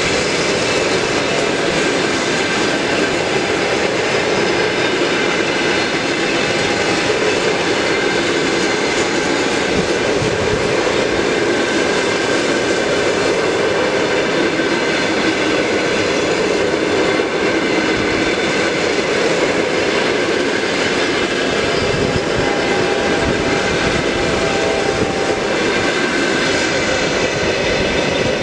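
A train passing at close range: a loud, steady rolling noise of wheels on the rails.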